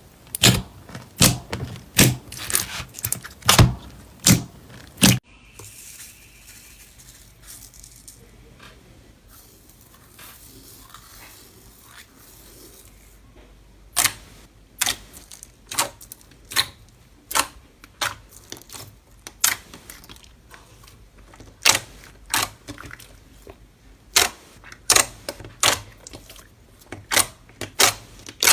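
Slime being worked by hand, giving a run of sharp pops and clicks, with a quieter stretch of about nine seconds in the middle before the pops start again.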